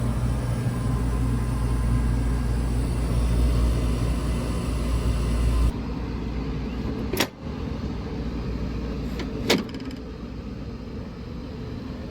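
Rooftop HVAC package unit running with a steady low hum, which cuts off suddenly about six seconds in. Two sharp clacks follow, a couple of seconds apart.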